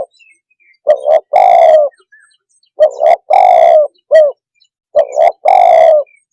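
Spotted dove (tekukur) cooing its song three times: each phrase is one or two short coos followed by a longer, drawn-out coo, repeated about every two seconds.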